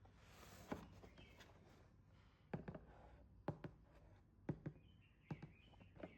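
Quiet handling noise: a soft rustle at the start, then about seven light knocks and clicks of small hard objects being set down and moved.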